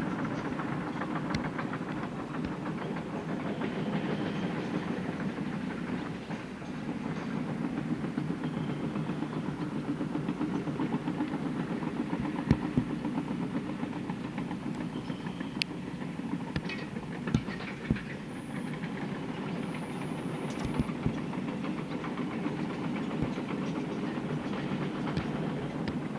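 Fishing boat's diesel engine running steadily, a low, rapid, even thrum, with a few sharp knocks about halfway through.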